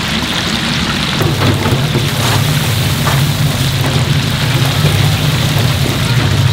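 Food deep-frying in hot oil, a steady sizzle, with a steady low hum underneath.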